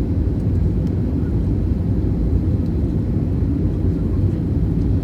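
Steady low rumble of an airliner heard from inside the passenger cabin, jet engine and airframe noise with no change in level.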